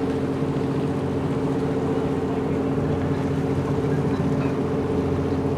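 A ship's diesel engine running steadily: an even low hum with several fixed tones and no change in speed.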